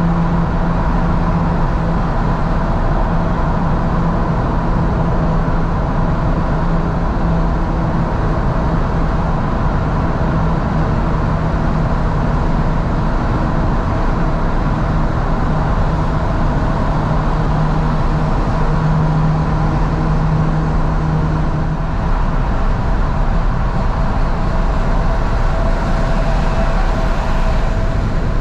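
A Fiat 500S's engine running at a steady cruise, heard from inside the car with the windows wide open, mixed with loud, steady road and wind noise. The engine note drops lower near the end.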